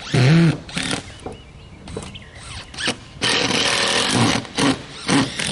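Power tool working on plywood and lumber, run in bursts: a short loud burst at the start, a longer run of about a second past the middle, and two brief bursts near the end.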